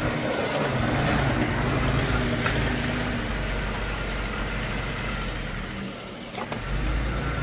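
AMC Eagle SX/4's engine idling steadily, dipping briefly about six seconds in before it picks up again.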